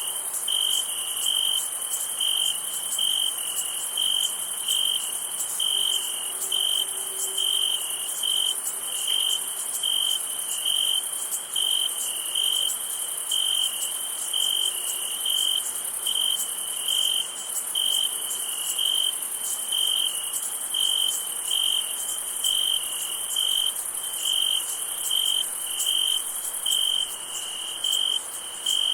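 Night insect chorus: a cricket chirping evenly, about two chirps a second, over a continuous high-pitched insect trill.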